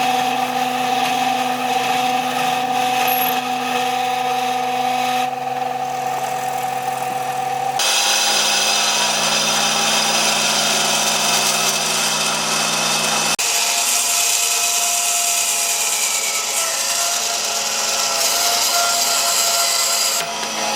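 An electric power tool running steadily as it works wood. Its steady pitch and tone change abruptly about 8 and 13 seconds in.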